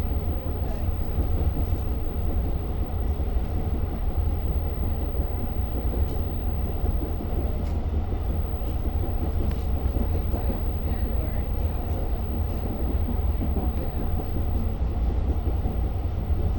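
Steady low rumble of a Long Island Rail Road diesel train heard from inside the passenger car, with a few faint ticks and rattles.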